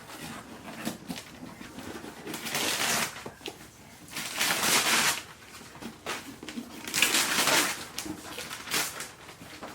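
Gift wrapping and packaging being torn and crumpled open by hand, in several rustling, tearing bursts. The loudest come about halfway through and again about two-thirds of the way in.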